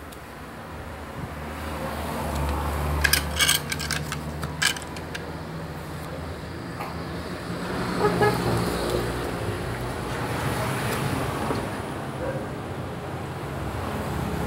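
Motor vehicle engine running with road noise, swelling over the first few seconds. Several sharp clicks come about three to five seconds in, and a short pitched sound comes around eight seconds.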